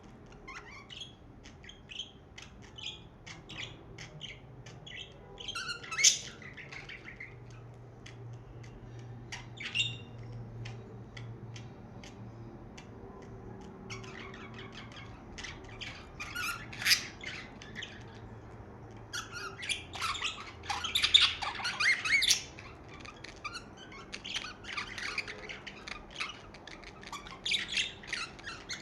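Budgerigars chattering: a run of quick chirps, squawks and warbles with louder bouts of calling about six seconds in, around seventeen seconds and again between twenty and twenty-two seconds.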